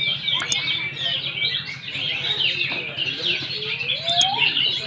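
Many caged songbirds singing at once: a dense, overlapping chorus of quick chirps and trills, with a single rising whistle near the end.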